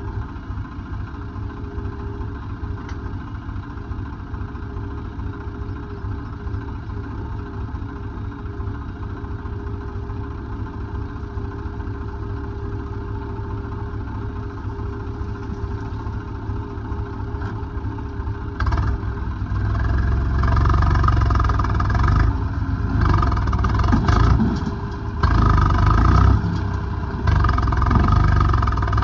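Heavy diesel engine running steadily at idle, then from about two-thirds of the way in revving hard in repeated surges, as under hydraulic or driving load.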